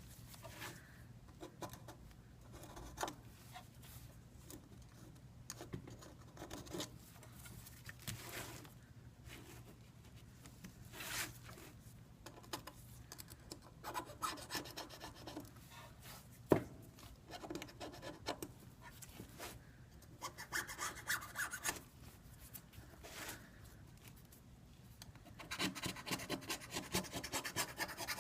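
Hand work scraping and rubbing on an iPad 2's housing, in scattered strokes with a sharp click about sixteen seconds in and a quick run of repeated scraping strokes near the end.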